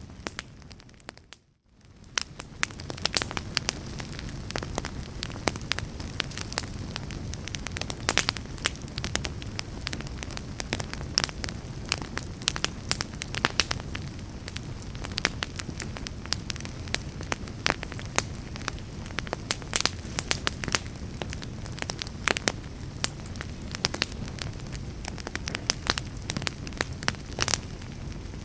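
Wood log fire burning in a fireplace: steady crackling with frequent sharp pops over a low rumble of flame. The sound drops out briefly about a second in and fades back up.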